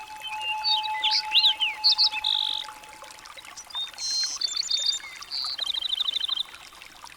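Songbirds singing: quick chirps and whistled up-and-down notes, with a rapid trill of repeated notes near the end.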